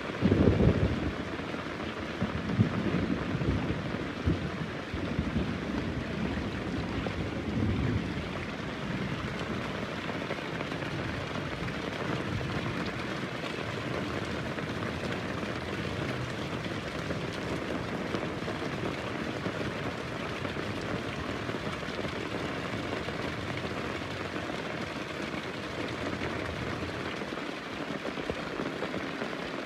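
Heavy rain falling steadily. A loud thunderclap rumbles right at the start, with a few more rolling rumbles over the next several seconds before only the rain remains.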